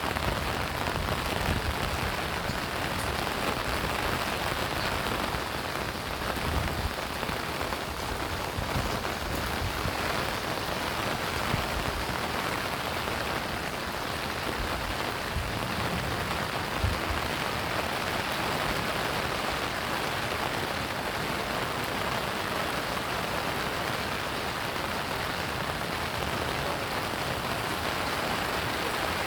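Steady rain falling and pattering on surfaces, with a few soft low thumps scattered through it.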